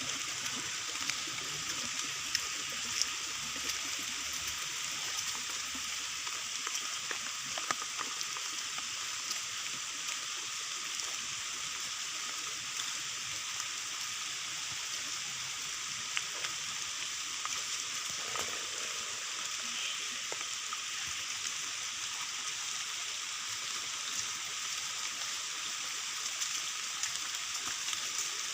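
Steady rain falling, with a few sharp taps scattered through it.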